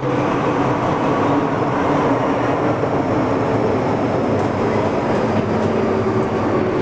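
MTR M-Train electric multiple unit running between stations: a steady rumble of wheels and running gear on the track, with a faint steady hum.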